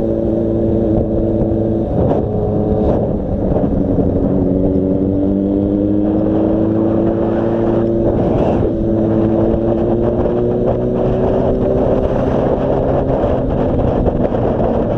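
Yamaha FZ6 motorcycle's 600 cc inline-four engine running under way, its pitch rising slowly through the middle as the bike picks up speed, then holding steady.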